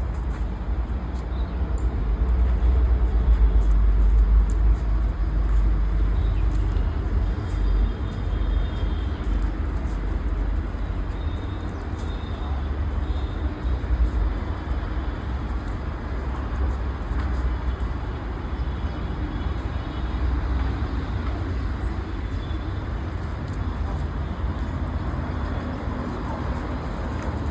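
Steady low outdoor rumble with road traffic noise, a little louder in the first few seconds, and a few faint high tones.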